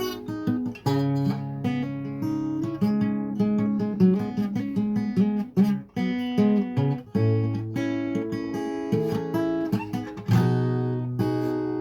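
Strummed acoustic guitar playing an instrumental passage in C-sharp minor, chords struck in a steady rhythm with held notes ringing between strums.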